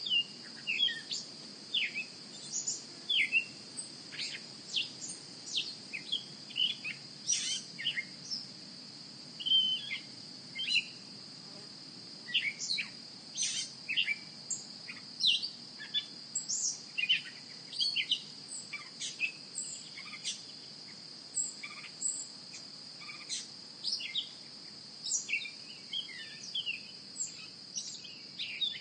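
Small birds chirping in many short, irregular calls, over a steady high-pitched hum.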